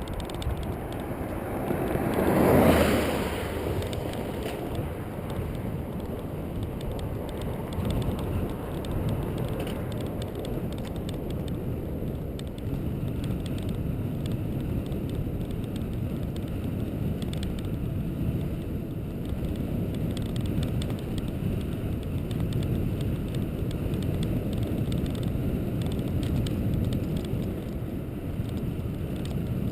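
Steady low rumble of road and wind noise while travelling along a road, with one louder swell about two to three seconds in.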